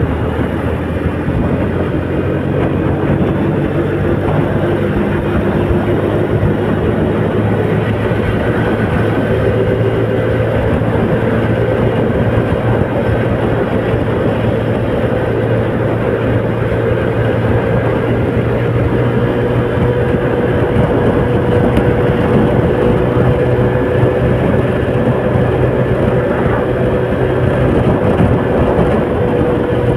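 A vehicle's engine running while driving, its tone creeping slowly higher over the first half, under a steady rush of road and heavy-rain noise.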